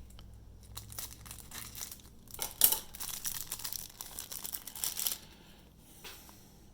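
Cellophane pack wrappers crinkling as trading-card packs are handled and opened, with one sharp, loud crackle about two and a half seconds in. The crinkling dies away after about five seconds.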